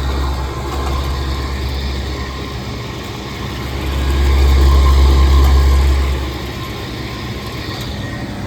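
A refrigeration condensing unit running, its motor giving a flutter and grinding typical of worn motor bearings. A low rumble swells about four seconds in and fades two seconds later.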